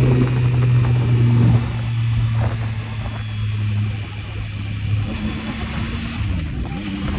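Yamaha MT-09 three-cylinder motorcycle engine running under way, with wind noise. It eases in loudness about a second and a half in, then steps up in pitch near five seconds and dips briefly about a second later.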